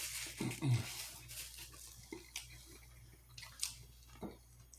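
Close-miked mouth sounds of a person chewing and smacking their lips, with scattered wet clicks and a short falling hum about half a second in.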